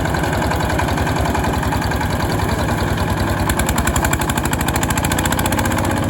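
Small engine running steadily with a fast, even pulse.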